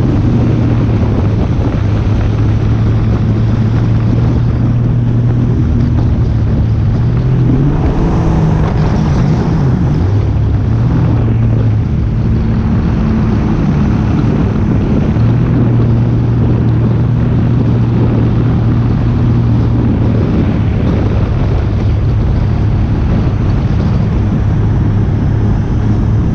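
An engine running steadily, its speed shifting up and down a few times, with wind noise on the microphone.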